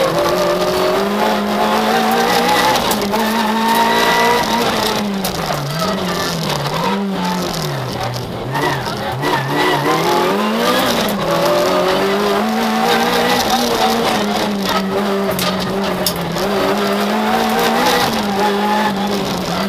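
Citroën Saxo VTS rally car's 1.6-litre four-cylinder engine heard from inside the cabin, driven hard at high revs, pitch rising and falling with gear changes and lifts. The revs drop away for a few seconds about halfway through, then climb again.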